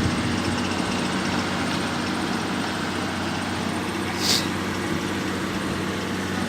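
Heavy diesel engine running steadily, with a short hiss about four seconds in.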